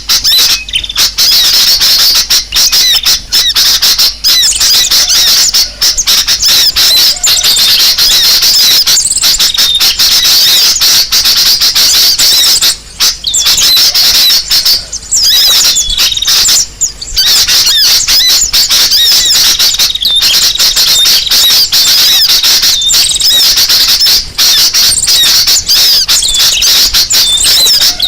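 Loud, dense commotion of many small birds calling at once, rapid chirps and trills overlapping with hardly a break, with a few short lulls in the middle. It is a bird-lure recording of noisy, agitated birds, played to draw other birds in.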